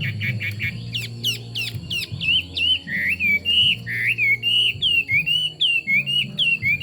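Chinese hwamei singing: a fast, continuous run of loud whistled notes that sweep up and down, several a second.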